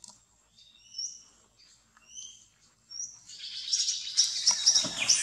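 Birds chirping: short, high whistled notes, some sliding up or down, spaced about half a second to a second apart. In the last two seconds they thicken into a louder run of rapid chirps.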